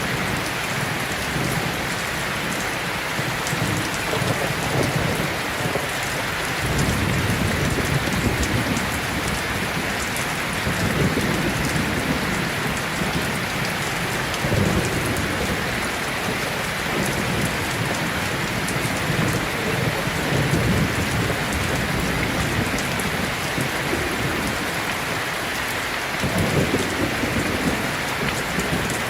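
Steady heavy rain with thunder rumbling several times, low rolling swells that come and go under the constant hiss of the rain.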